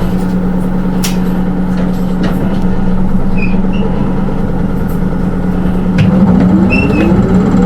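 Interior sound of a Hino Rainbow II SDG-KR290J1 automatic-transmission diesel bus: a steady hum, then a knock about six seconds in and the engine note rising steadily as the bus pulls away and accelerates.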